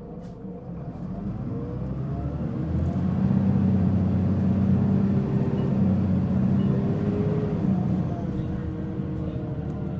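Mitsubishi Fuso Aerostar LKG-MP37FK city bus's diesel engine pulling away under fairly firm throttle, heard from inside the bus. The engine note builds over the first three seconds, holds, then eases off near the end.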